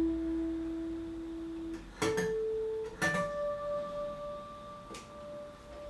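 Guitar strings plucked one at a time, each single note left to ring clearly: three notes, each higher than the last, the second about two seconds in and the third a second later.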